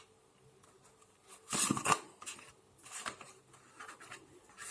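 Tarot cards being handled: a short papery rustle about a second and a half in, then a few fainter brief rustles.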